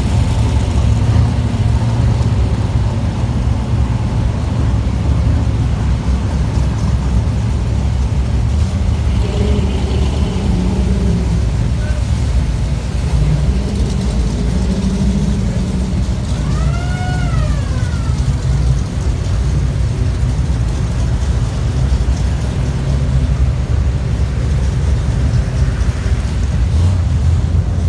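Classic car engines rumbling at low speed as the cars roll in, a steady deep rumble. About two thirds of the way through, a short pitched sound rises and falls once.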